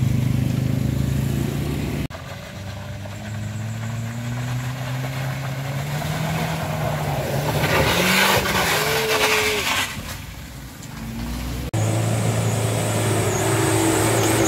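Vehicles climbing a rough dirt and gravel road: a Toyota Calya MPV's engine pulling up the slope with its pitch slowly rising, and a loud rush of tyres and engine as it passes close. After a cut, a light truck's engine running steadily as it climbs.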